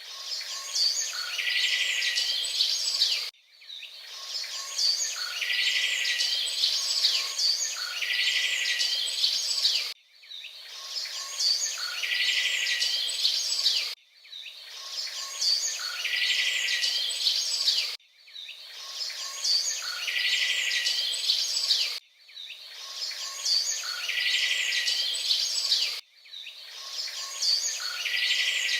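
Birdsong, high chirps and trills, where the same few seconds of calls repeat in a loop about every four seconds, each repeat starting abruptly after a brief dip.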